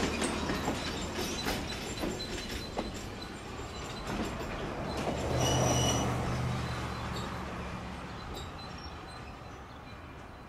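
Black River & Western passenger train rolling past and away, its wheels clicking over the rail joints, with a brief high wheel squeal about five seconds in. The sound fades as the train pulls away.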